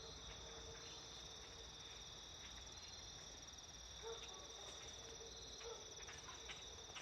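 Faint insect chorus: a steady, unbroken high trill at two pitches, with a few short faint chirps scattered over it.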